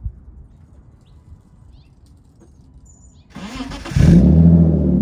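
1993 BMW 325is's 2.5-litre straight-six with blast pipes cold-starting: the starter cranks briefly a little after three seconds in, then the engine catches about a second later and runs loudly. A short click comes right at the start.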